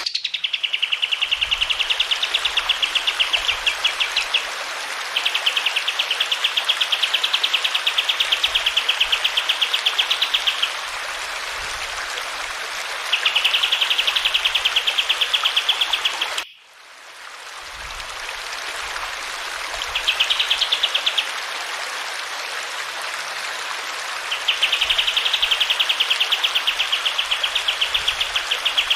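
Kapas tembak (pied triller) singing long, fast rolling trills, five phrases of a few seconds each with pauses between, over a steady hiss of running water. Partway through, the sound drops out for a moment and comes back, as at an edit.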